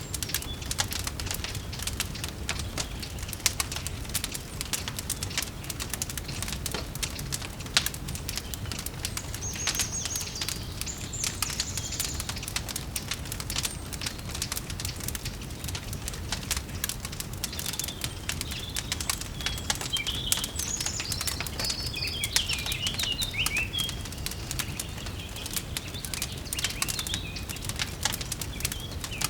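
Wood fire crackling with many small pops over a low, steady noise, with songbirds chirping now and then, in two spells: about ten seconds in and again from about eighteen seconds.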